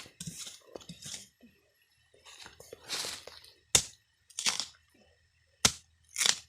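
Bamboo shoots being snapped off by hand: short rustles of the stalks and leaves, with two sharp cracks about four and six seconds in.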